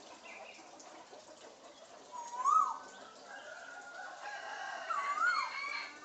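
African grey parrot giving two short whistled calls, each rising then falling, about two and a half seconds apart, with fainter bird calls behind.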